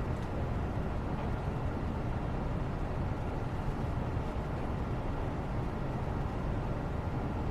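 Steady low-pitched background noise, a white-noise style rumble that stays even throughout, with a faint click just after the start.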